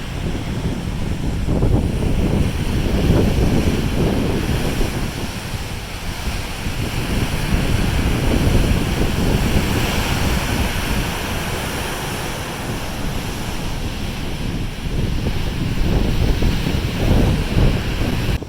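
Wind buffeting the microphone in gusts over the rushing of open-ocean waves below a moving ship.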